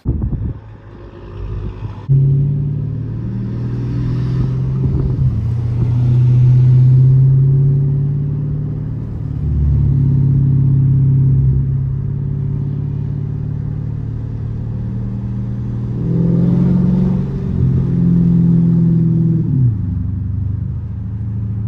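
Straight-piped 2012 Dodge Charger SRT8's 6.4-litre Hemi V8 exhaust while driving. It gets louder about two seconds in, and its pitch climbs and drops in steps as it pulls through the gears, easing down near the end.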